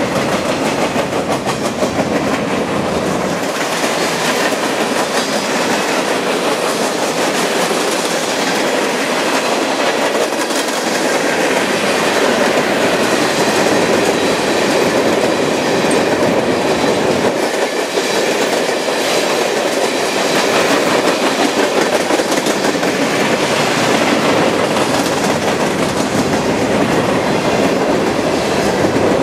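Mixed freight train of boxcars and tank cars rolling past: steady loud noise of steel wheels running on the rails, with no locomotive in the sound.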